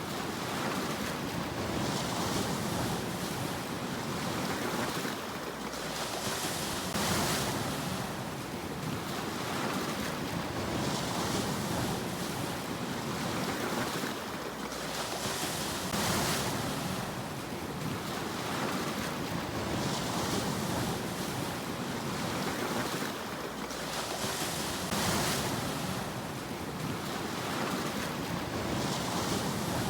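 Sea waves breaking on the shore one after another, a surge of surf every few seconds over a steady wash.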